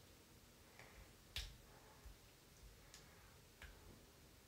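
Near silence with a few faint, irregular clicks of a plastic floss pick's floss snapping between teeth, the sharpest about a second and a half in.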